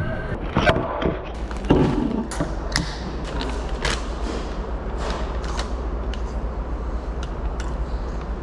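Steady low wind rumble on the microphone, with irregular sharp clicks and a couple of heavier thumps in the first two seconds.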